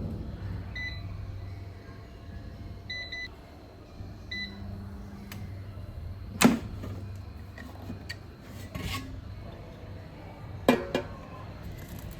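Electric kitchen appliance humming steadily, with short high keypad beeps: one, then three in quick succession, then one more. A sharp knock near the middle and a couple of clicks near the end.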